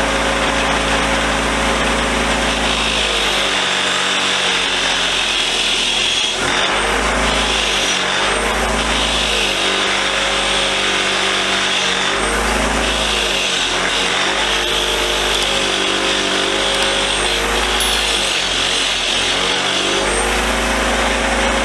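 Motor-driven wire wheel running with a steady hum, its wire bristles stripping layers of old paint off a vise part. A harsh scratching comes and goes as the piece is pressed against the wheel and eased off.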